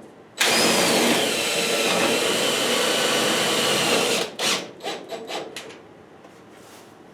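Power drill driving self-tapping screws into a sheet-metal heat duct: one run of about four seconds with a motor whine, then a few short bursts on the trigger.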